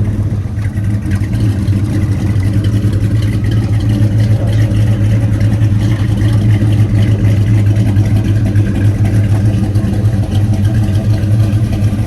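Car engine running steadily at idle, just brought to life with a jump start from jumper cables because its battery would not start it.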